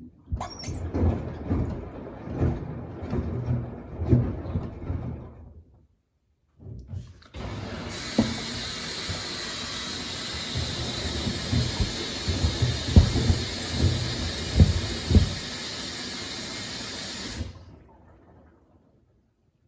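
Samsung WD70T4047CE washer-dryer's drum turning with sneakers inside, giving dull irregular thuds and sloshing. About eight seconds in, water starts hissing steadily into the machine during the gradual fill, the thuds carrying on under it. The hiss cuts off sharply near the end.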